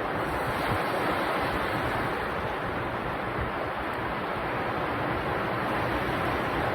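Sea waves breaking and washing ashore on a beach: a steady, unbroken rush of surf.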